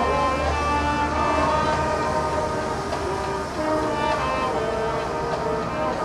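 Elementary school marching band playing, with wind instruments holding stacked chords that change every second or so.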